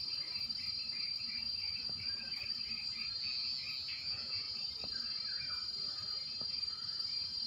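Insects droning in the mangrove in one steady, unbroken high note, over a lower chirping pulse about four times a second.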